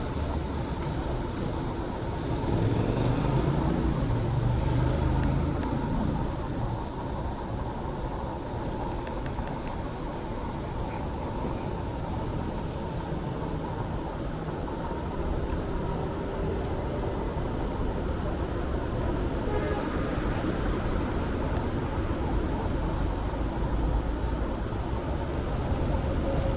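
Urban road traffic: a steady rumble of cars, with a louder vehicle passing about three seconds in.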